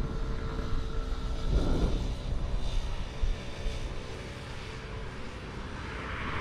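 A steady, distant engine drone with a low rumble, its hum fading after about two seconds, and gusts of wind on the microphone.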